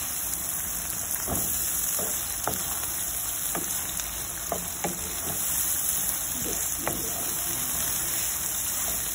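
Chopped onions and ginger-garlic paste sizzling as they fry in ghee and oil in a nonstick frying pan. A wooden spoon stirs them, scraping and knocking against the pan several times.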